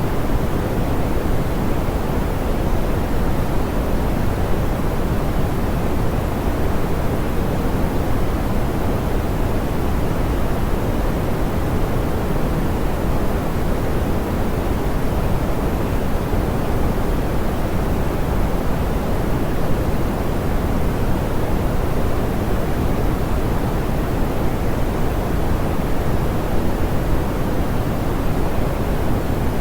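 Steady pink noise, soft and smoothed, with most of its weight in the low end and little treble: an even hiss-like rush that never changes.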